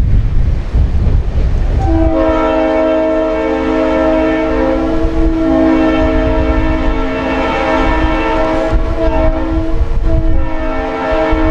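Diesel locomotive air horn sounding long blasts, several tones at once, starting about two seconds in with brief breaks, over the low rumble of the passing train.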